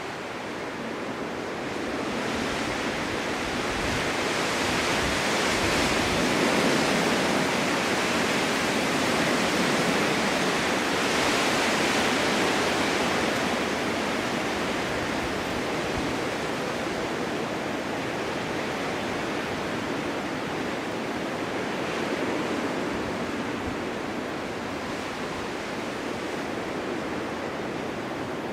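Wind blowing in steady gusts, rising into a stronger gust in the first half and easing off a little after.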